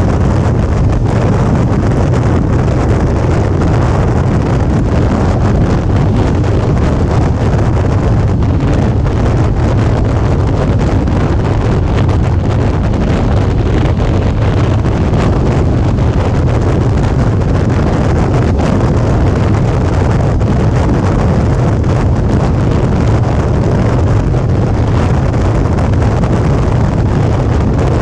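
Steady wind rush buffeting a GoPro's microphone on a moving Suzuki V-Strom 650, with the motorcycle's V-twin engine running underneath at an even cruise.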